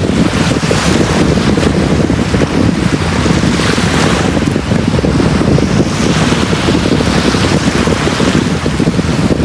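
Sea surf washing onto a beach: a steady rumble of waves with wind buffeting the microphone, and the hiss of breaking water swelling several times.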